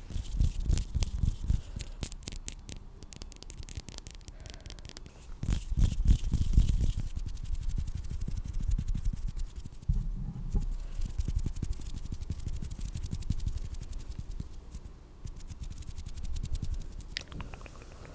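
Hands rubbing together close to a sensitive microphone: a dense, steady crackle of skin on skin with soft low thuds, loudest about a second in and again around six seconds in.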